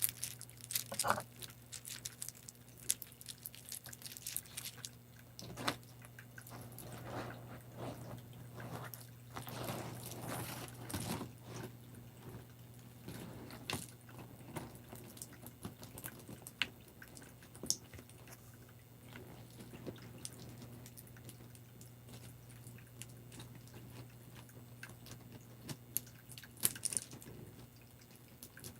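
Small objects handled close to the microphone: scattered light clicks and taps, with a few soft rustling swells a quarter of the way in, over a steady low hum.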